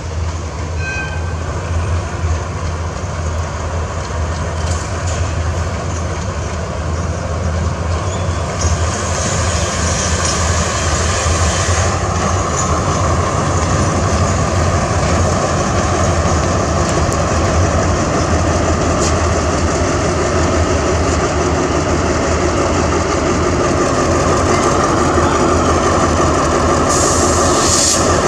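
Diesel locomotive hauling a container freight train slowly past: the engine runs with a steady low hum under the rumble of the wagons on the rails. The sound grows gradually louder as the locomotive draws near toward the end.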